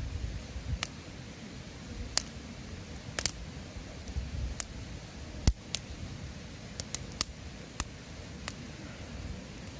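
Wood fire crackling: sharp, irregular pops about once a second over a low rumble, with the loudest pop about halfway through.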